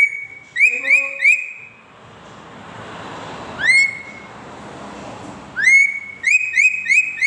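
A bird giving loud, short whistled notes, each sweeping up and then holding one pitch. There are four in quick succession at the start, a single note a little past the middle, and a fast run of them near the end.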